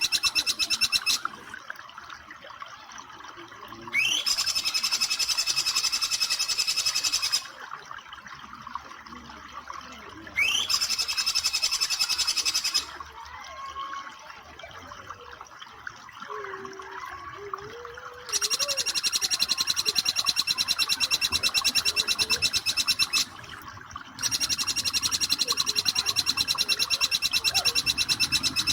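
Jingjing petulak, a small Hemipus flycatcher-shrike, singing its 'nembak' song: long, very rapid, high trilling bursts of a few seconds each, five times, some opening with a quick upward note. Softer, varied bird chirps come between the bursts.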